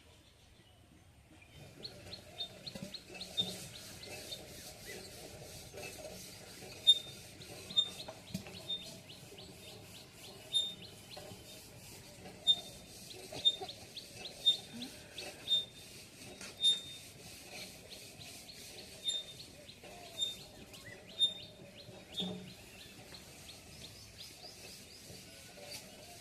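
Small birds chirping and twittering steadily, with a series of sharp scrapes about once a second from the middle of the stretch on.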